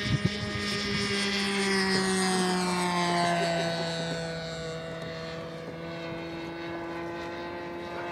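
Irvine .53 two-stroke glow engine of a radio-controlled model plane running at high revs with a buzzing propeller. Its pitch sags slowly and it grows a little quieter from about three seconds in.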